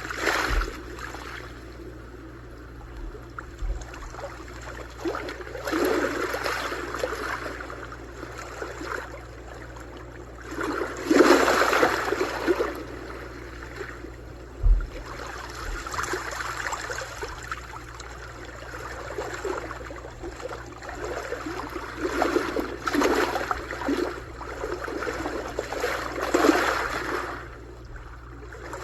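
Sea waves washing in and drawing back, a steady rush that swells into a surge every few seconds, the biggest about eleven seconds in. A few brief low thumps sound under it.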